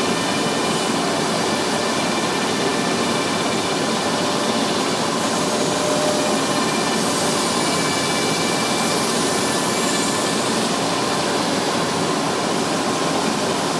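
Propeller sanding machine running, a steady loud rushing noise with a faint high whine; the hiss grows brighter for a few seconds in the middle.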